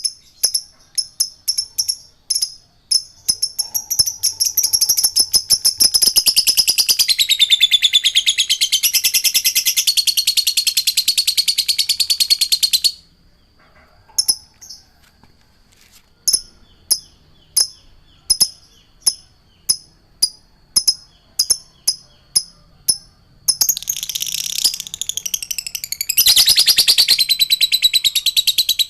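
Songbird song in loud, high-pitched sections: trains of short sharp chirps about two a second alternate with dense, fast trilling. The song cuts off suddenly about halfway through, then comes back as single chirps before another dense trill near the end.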